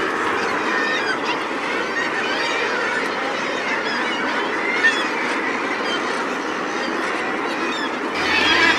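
Dense chorus of many seabirds calling at once in a nesting colony, a steady mass of overlapping harsh calls. Near the end it grows louder and a low hum comes in.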